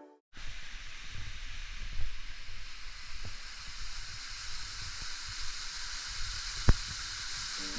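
Steady outdoor rushing noise with a low rumble, cutting in suddenly after a moment of silence, with one sharp knock about two-thirds of the way through.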